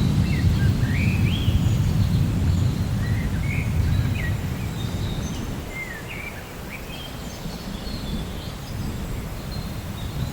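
Rolling thunder rumbling low and gradually dying away over the first half or so, while several birds chirp with short rising and falling notes throughout, over a faint hiss of rain.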